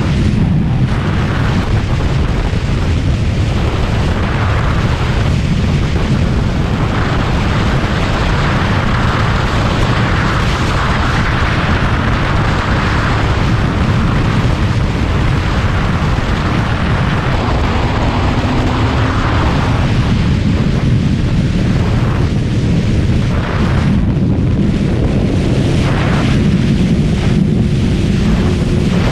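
Kawasaki ZX-636R's 636 cc inline-four engine running under way, buried in heavy wind rush and buffeting on the microphone.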